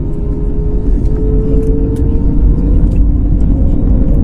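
Cabin noise of an Airbus A321neo on its takeoff run: the Pratt & Whitney PW1100G geared turbofans at takeoff thrust over a heavy rumble, with one tone slowly rising in pitch and a few sharp rattles. The noise grows slowly louder.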